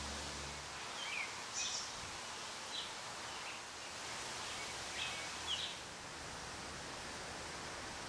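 A handful of short bird chirps, about six spread through the first six seconds, over a steady background hiss.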